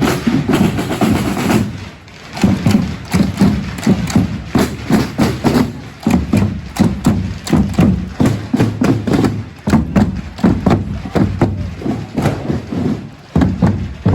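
Marching procession band with drums beating a fast, steady rhythm in phrases, with short breaks between them.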